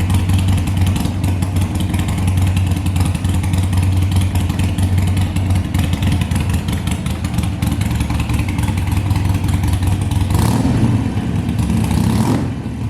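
Harley-Davidson Sportster Iron 883's 883 cc Evolution V-twin running at a steady idle, then revved up briefly twice near the end.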